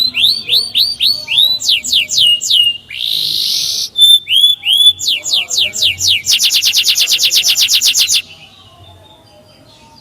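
Male canary singing close to the microphone: runs of quick rising 'cuit' chirps, a short harsh note about three seconds in, then a rapid trill of about eight notes a second that stops abruptly about eight seconds in, leaving only faint background sound.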